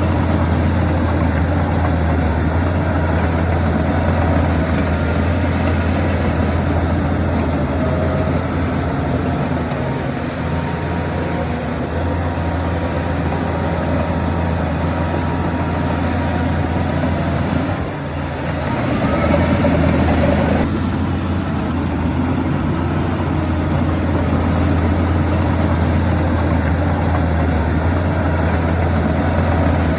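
Heavy diesel engine of earthmoving machinery running steadily with a low drone. About two-thirds of the way through it dips briefly, then a louder, fuller stretch follows for a couple of seconds and stops abruptly.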